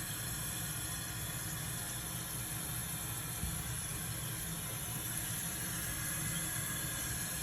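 New toilet fill valve running with the supply water on, a steady hiss of water filling the tank.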